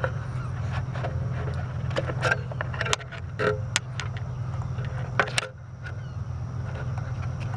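Steady low hum of a running vehicle, with scattered sharp clicks and knocks and a brief lull about two thirds of the way through.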